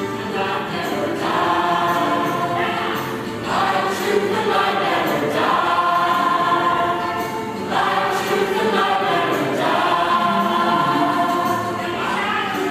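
Music: a choir singing in long sustained phrases, with short breaks about every four seconds.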